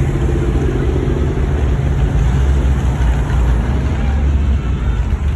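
Classic car engines rumbling steadily as cars cruise along the street.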